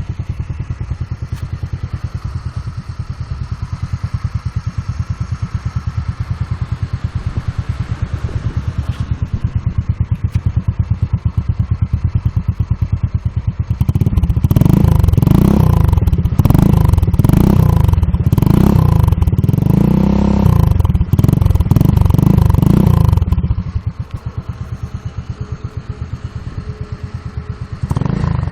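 Mondial 150 RE's single-cylinder engine through an aftermarket chrome, fibre-packed performance exhaust, idling with a rapid even beat. About halfway in it is revved in a run of quick throttle blips, each rising and falling, for roughly ten seconds. It then drops back to idle, with one more short blip near the end.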